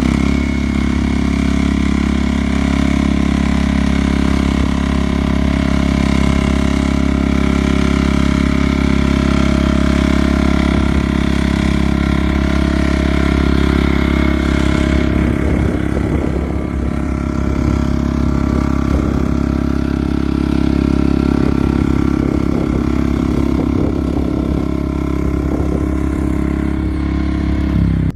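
Mini tractor engine running steadily at a constant speed, likely while plowing. About halfway through its sound turns duller and rougher.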